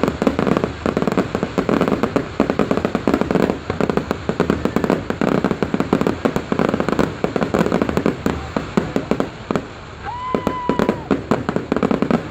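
Fireworks display: a dense, rapid barrage of crackling bangs that thins out near the end, with a short whistling tone about ten seconds in.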